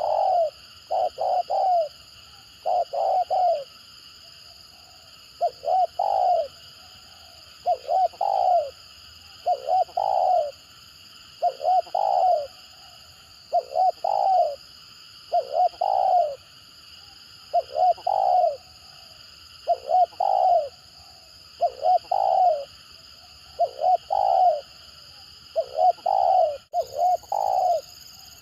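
Spotted dove cooing in a stuttering pattern: short broken phrases of two or three coo notes, repeating about every two seconds over a steady high hiss.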